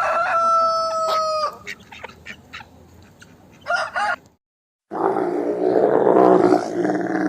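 Rooster finishing a crow on a long held note that drops at the end, followed by short clucks. After a brief silence, a different animal gives a harsh, noisy, drawn-out call lasting about three seconds.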